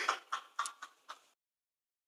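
Four short faint clicks about a quarter-second apart, then the sound cuts off to dead silence a little over a second in.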